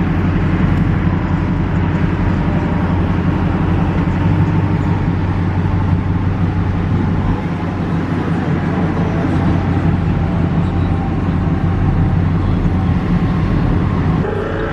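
Truck engines running with a steady, unbroken low rumble.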